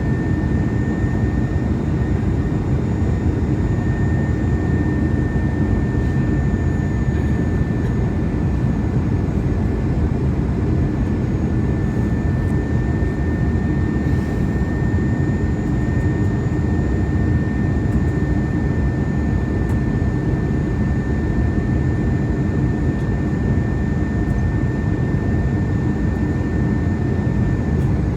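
Steady cabin noise of an Airbus A321-211 in flight: the rush of air over the fuselage and the hum of its CFM56 engines, with a thin, steady high whine over it.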